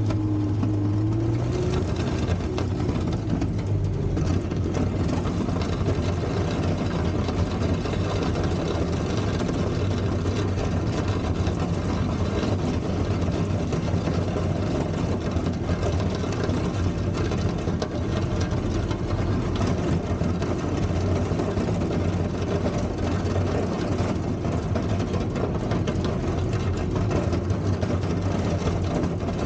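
Four-cylinder Volvo gasoline engine of a 1960s Kalmar baggage tractor running at steady revs. Its note drops slightly about a second and a half in, then holds even.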